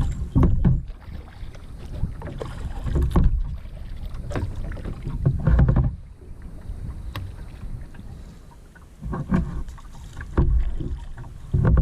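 Kayak paddle strokes in the water, with a splash and swish every second or two and a quieter lull in the middle. The strokes are dragged back along the surface to turn the kayak.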